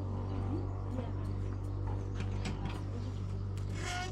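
Steady low hum with faint distant voices and a few light knocks; near the end a short, high-pitched call.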